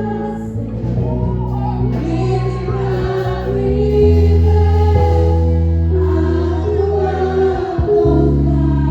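Gospel praise song: several voices singing together over sustained chords with a deep bass, the chords changing about four seconds in and again near the end.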